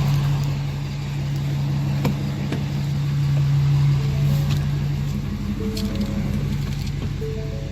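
Ford 6.7 L Power Stroke diesel V8 idling steadily just after its first start with the DPF and EGR deleted and a race exhaust fitted. From about four seconds in, a soft rising three-note chime repeats roughly every second and a half over the idle.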